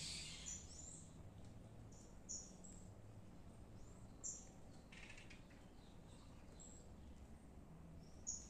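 Birds chirping: short, high chirps every second or two, faint over a low steady hum.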